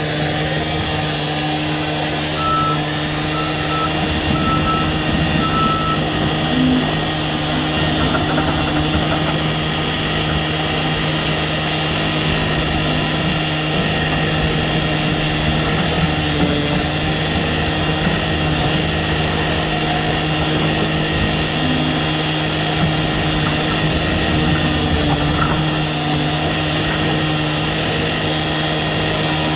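Diesel engine of a tracked excavator or skid steer running steadily under work, a continuous hum. A few seconds in, a run of about five short, evenly spaced high beeps from a warning beeper sounds over it.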